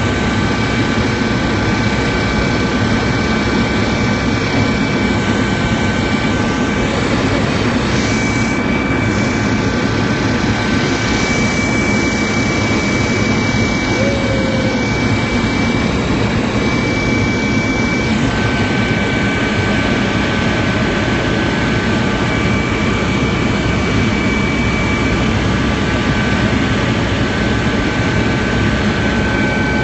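Helicopter in flight heard from inside the cabin: a loud, steady engine and rotor noise with a faint steady high-pitched whine running through it.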